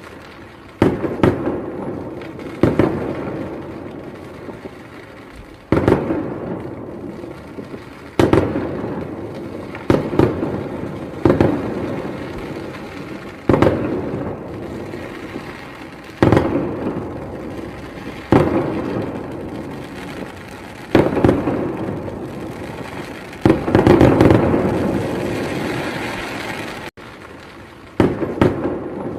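A fireworks display: aerial shells bursting, a dozen or so sharp bangs every couple of seconds, each trailing off in a long rumbling echo. Several shells burst close together about three-quarters of the way through.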